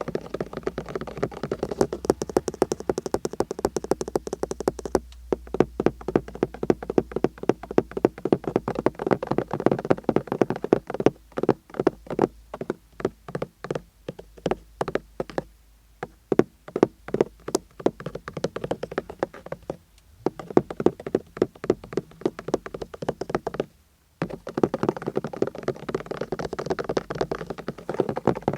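Fast, continuous ASMR-style tapping: many quick, light strikes a second in long runs, broken by a few brief pauses.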